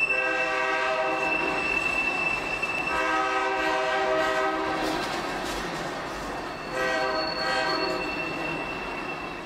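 Train sounds: steady running noise with a thin high whine, and three long, steady pitched tones, each a second or two long, starting near the start, about three seconds in, and about seven seconds in.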